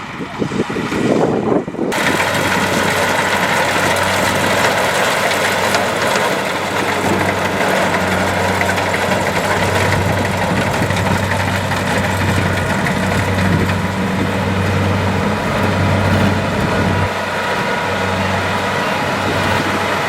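Kubota DC-70 Plus rice combine harvester running steadily at work, its diesel engine and threshing machinery making a loud, even drone. A duller, quieter sound gives way abruptly to the full machine noise about two seconds in.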